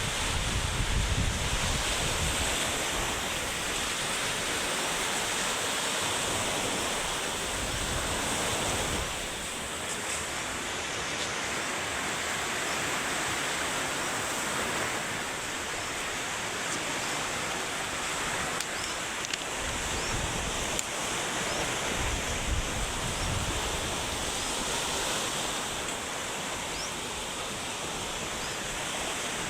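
Storm-driven sea surf washing and crashing in a steady roar of noise, with strong typhoon wind gusting over the microphone now and then, most heavily at the start, about two-thirds of the way through, and at the end.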